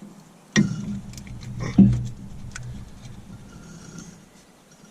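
Two sharp knocks about a second apart, each with a short low ring after it, then faint clicks and small rattles: hand work on a stubborn part of a side-by-side's wheel assembly.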